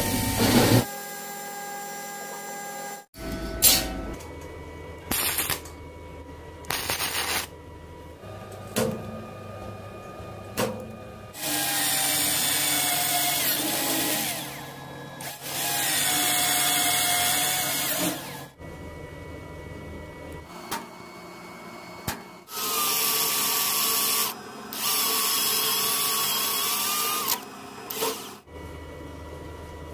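Handheld electric power tool running in several bursts of a few seconds each, a motor whine whose pitch sags a little under load, with shorter runs and clicks between them.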